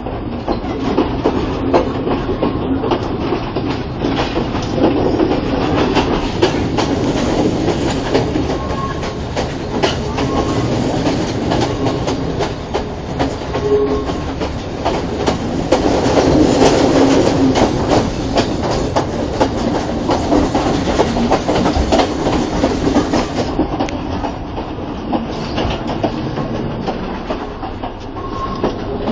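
Train running along the track, its wheels clattering over the rails and the carriage rattling steadily, with a few brief faint squeals.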